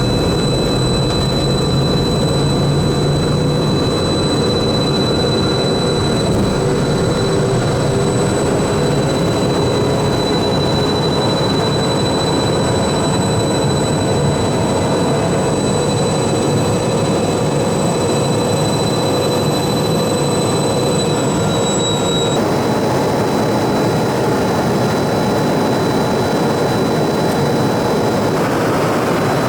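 Twin rear-mounted turbofan engines of an Embraer Phenom 300 running at high power during takeoff: a steady roar with a high fan whine. The whine's pitch shifts slightly about two-thirds of the way through.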